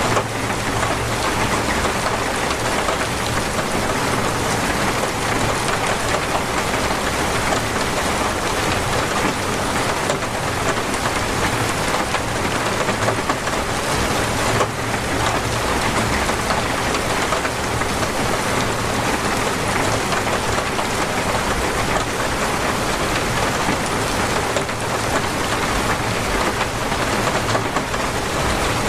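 Heavy, torrential rain falling steadily, a dense even hiss of drops on surfaces, with a low rumble underneath that comes and goes.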